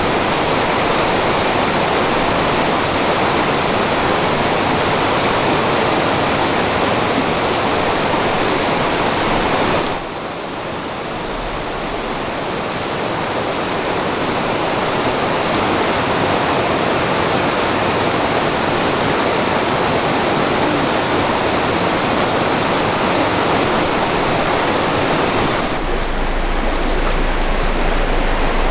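Mountain stream rushing over rocks, a steady loud wash of water. About ten seconds in it drops suddenly in level, then slowly builds back up.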